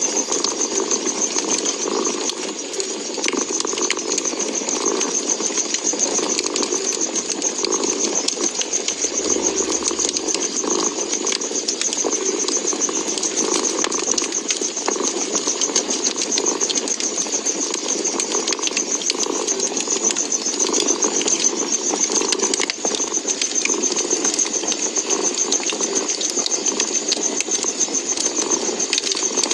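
Domestic cat purring steadily, the purr swelling and fading about once a second with its breathing, over a crackling wood fire that gives a steady hiss and scattered small pops.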